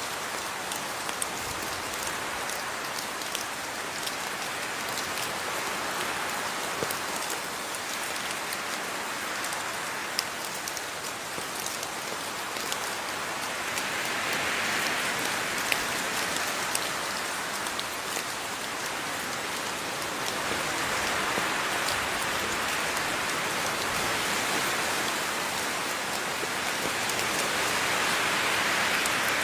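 Steady rain falling and pattering on a surface, with scattered sharper drop ticks; the rain swells and eases gently every few seconds.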